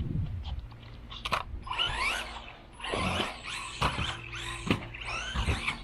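Brushless motor of a Losi Mini-B RC buggy whining in short bursts, its pitch rising and falling as the throttle is blipped, with a few sharp knocks from the car hitting the track.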